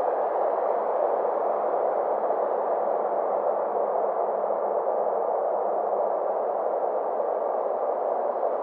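Synthesized space-ambience drone: a steady band of hissing noise with a slow filter sweep that rises and then falls over several seconds, rising again near the end.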